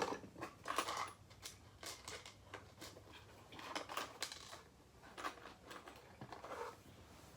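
Small loose parts being rummaged through and handled: a string of light, irregular clicks and rustles.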